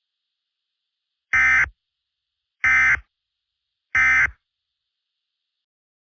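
Emergency Alert System end-of-message data tones: three short, identical buzzy bursts of digital warbling, evenly spaced about a second apart. They mark the end of the alert.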